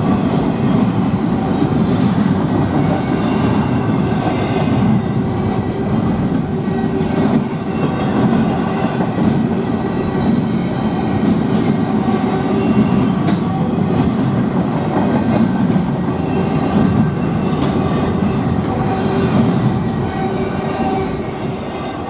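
Freight train cars rolling past a grade crossing, a steady rumble with wheels clattering over the rail joints, easing off slightly near the end.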